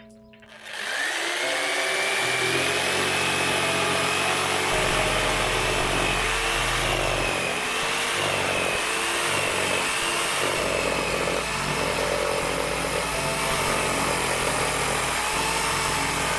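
An electric power tool running steadily and cutting wood, with a wavering high motor whine, over background music.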